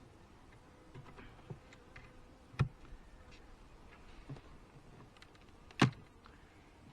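Wooden beehive frames and hive parts being handled: light scattered clicks and scrapes, with two sharp knocks, one about two and a half seconds in and a louder one near the end.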